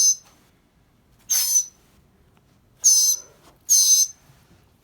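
Northern mockingbird giving harsh, high squawks: four short calls, each a fraction of a second, spaced about a second apart.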